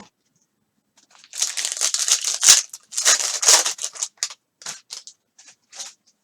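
Crinkling and tearing of a foil trading-card pack wrapper as it is ripped open and crumpled. A long loud stretch of crinkling about a second in is followed by several shorter crinkles.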